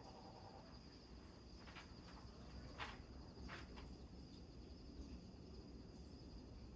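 Crickets trilling faintly and steadily at a high pitch, with a few short chirps in the middle and a low rumble underneath.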